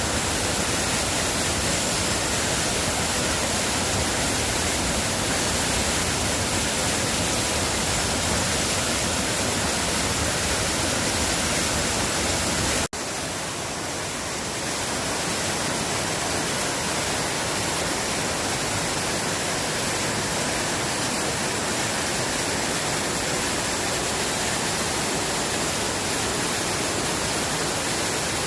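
Waterfall: a steady rush of falling water. About 13 seconds in it breaks off for an instant and resumes slightly softer with less low rumble, then builds back up.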